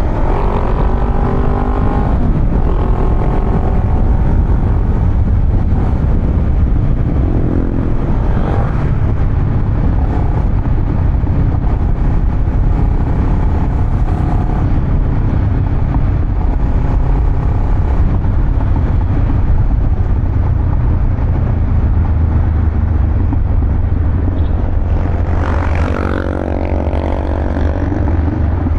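Honda Rebel 500's parallel-twin engine running through a Vance & Hines exhaust, a steady low rumble. Higher engine tones shift in pitch near the start and again near the end.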